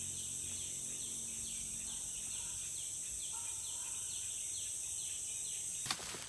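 Steady high-pitched chorus of forest insects, with a short falling chirp repeated about twice a second. A sharp click sounds near the end.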